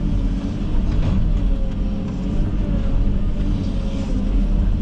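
Komatsu 360 excavator's diesel engine running steadily under work, a deep even hum with a faint wavering higher tone over it.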